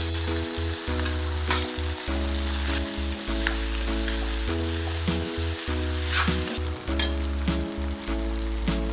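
Vegetables sizzling in a hot iron kadai while a steel spatula stirs and scrapes the pan, with scattered clinks, over background music with a steady bass line.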